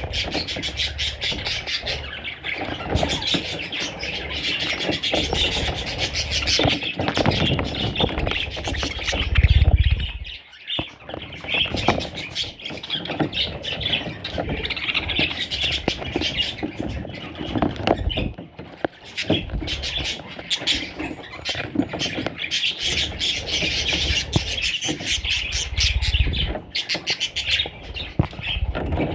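Budgerigars chattering and squawking non-stop: a busy jumble of high-pitched squeaks, warbles and clicks. Low bumps come about nine and a half seconds in and again near the end.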